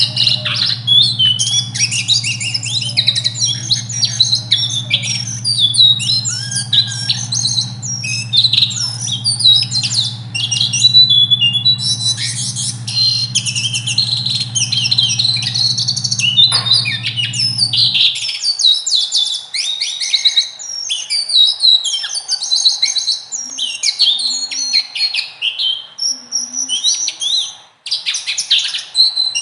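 Small songbirds singing a fast, unbroken stream of high chirps, sharp piercing notes and rolling trills, the 'nembak ngerol' style of song used as a masteran for training cage birds. A low steady hum underneath cuts off suddenly about two-thirds of the way through.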